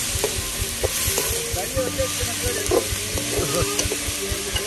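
Food frying in hot oil in a pan, a steady sizzling hiss broken by frequent short clicks of stirring.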